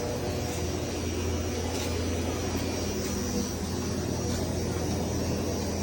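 Steady low drone of a car's engine and tyres, heard from inside the cabin while driving.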